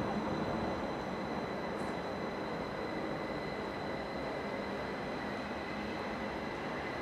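Electric passenger train pulling slowly into the station: a steady rumble with a thin, high, steady whine that grows stronger near the end.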